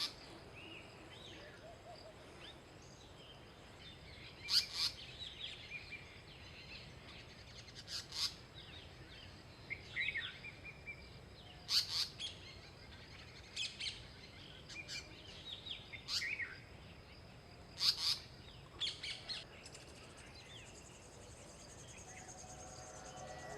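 Indian paradise flycatcher calling: short, harsh chirps every second or few seconds, with fainter twittering notes between them.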